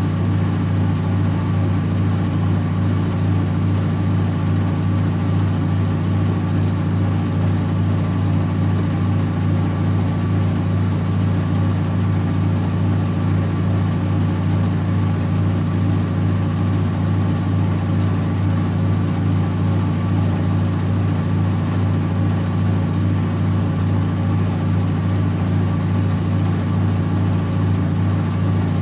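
Servis Automatic M3008B washing machine on its final 800 rpm spin: the drum spinning at full speed with a loud, steady hum.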